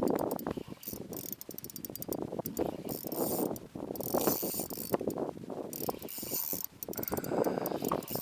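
Fishing reel drag buzzing in rapid clicks as a hooked fish runs and pulls line off the spool.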